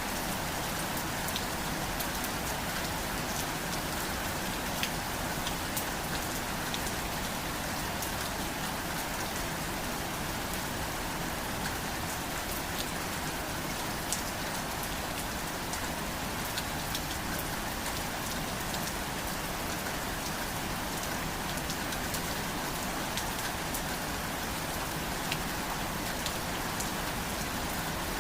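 Steady rain falling, a constant hiss with scattered sharper drops ticking on a surface.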